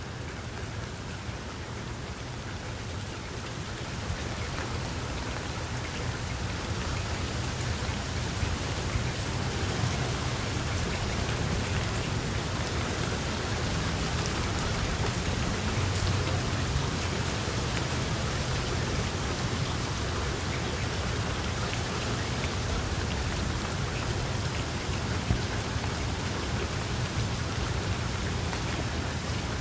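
Steady rain falling on a surface, with scattered drop ticks over a low rumble underneath. It grows louder over the first several seconds and then holds steady.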